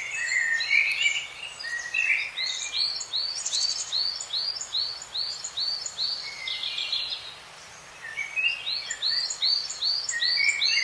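Birds singing: rapid runs of short, repeated chirping notes, about four or five a second, over a steady background hiss, with a brief lull about two-thirds of the way through.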